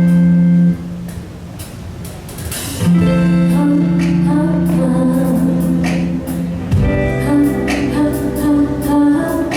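Live band music with guitar and singing: long held notes at first, then from about seven seconds a busier pattern of shorter notes.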